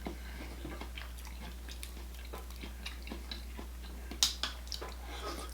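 Close-miked chewing and wet mouth sounds while eating seafood boil, with scattered small clicks and a sharper click about four seconds in.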